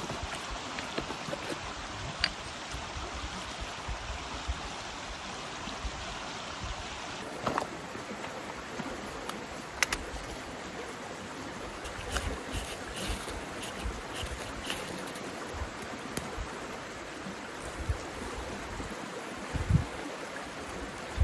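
Steady rushing water noise, with a few sharp small taps and clicks scattered through it and one louder knock near the end.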